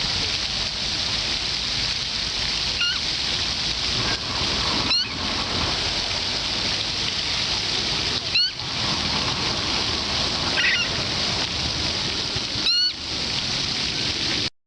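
Common moorhen calling: about five short, sharp upward notes, a few seconds apart, over a steady rushing background noise. The sound cuts out suddenly near the end.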